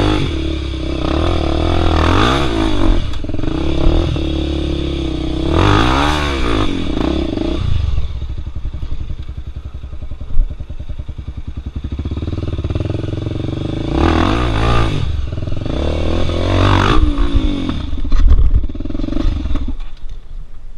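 Dirt bike engine on a rocky hard-enduro trail, revved in repeated throttle bursts with lower chugging in between, with some clattering.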